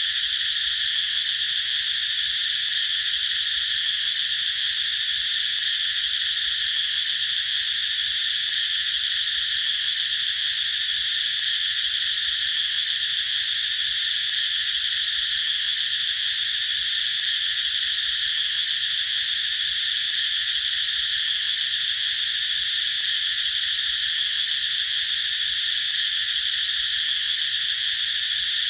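Cicadas singing in a steady, high-pitched, unbroken buzz.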